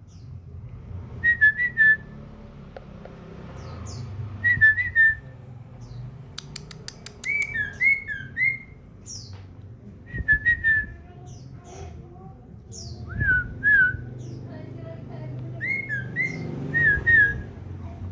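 Common iora (cipoh) singing: short whistled phrases of two or three notes at about the same pitch, repeated every couple of seconds, with a brief rattle of clicks about six and a half seconds in.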